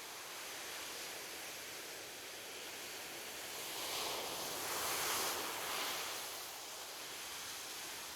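Gentle ocean surf washing on a beach: a steady hiss of waves, with one wave swelling and breaking louder about five seconds in before easing back.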